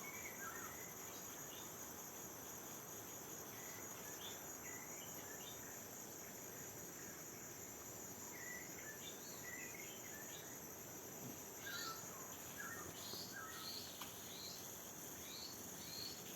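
A steady, high-pitched drone of insects, with short bird chirps scattered over it, coming more often in the second half.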